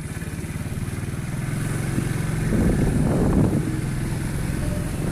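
Vehicle engine running while under way, its low pulsing note growing louder about two and a half seconds in.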